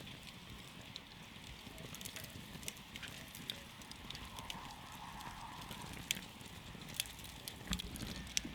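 Campfire burning, with irregular sharp crackles and pops of burning wood over a steady low rumble of flame; a few louder snaps come in the second half.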